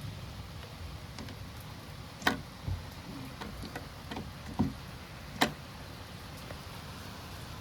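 Steady rain during a thunderstorm, with a handful of sharp single taps of drops striking a hard surface close by, the loudest a little over two seconds in and again about five seconds in.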